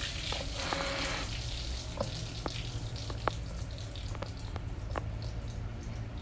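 Water trickling and dripping onto a hard surface, with separate irregular drip ticks over a steady low hum.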